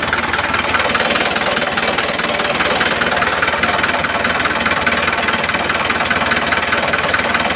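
A miniature tractor's small motor running steadily with a fast, even clatter.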